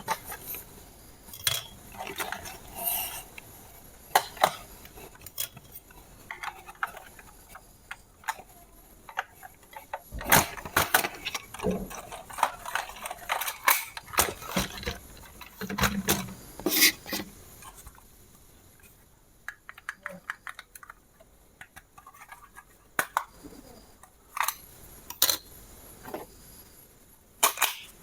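Irregular clicks, knocks and clatter of small hard objects being handled, some in quick clusters and some single.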